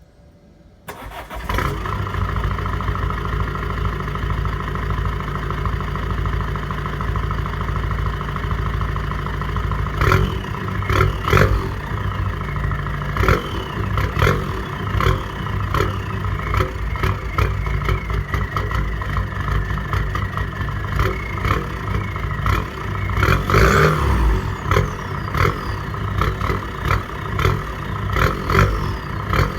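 Peugeot 206 1.4 HDi four-cylinder turbodiesel engine running through a homemade straight-through exhaust with the catalytic converter removed. It comes in abruptly about a second in and runs steadily, then from about ten seconds on it is blipped repeatedly with short revs.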